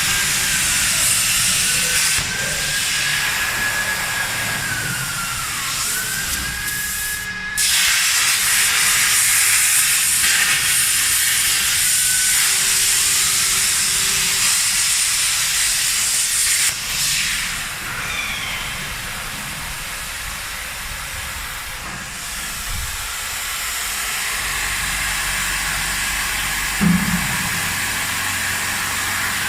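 Plasma cutting torch cutting pipe: a steady loud hiss of the plasma arc with a whistling tone that wavers and dips in pitch. The hiss breaks off briefly about seven seconds in and again near seventeen seconds, and there is a short thump near the end.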